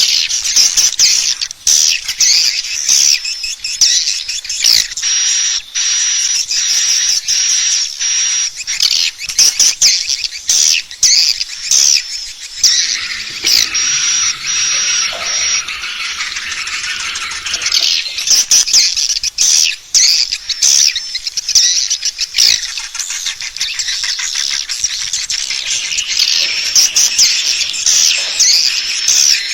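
Edible-nest swiftlet lure call: dense, rapid chirping and twittering of many swiftlets, with a thin steady high tone behind it through about the first half.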